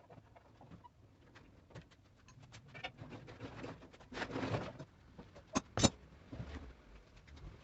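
Handling noises from working on the washing machine: scattered light clicks and taps, a short rustling scrape about four seconds in, then two sharp knocks in quick succession just before six seconds.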